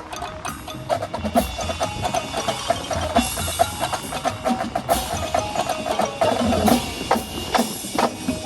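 Percussion ensemble playing a quick rhythmic passage of sharp struck notes over a short, stepping pitched melody.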